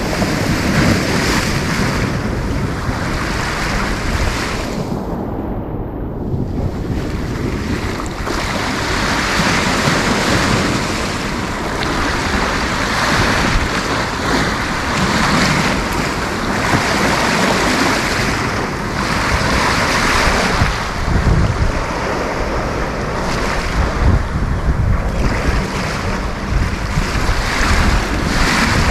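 Sea waves breaking and washing in, the hiss of the surf swelling every few seconds, with wind buffeting the microphone.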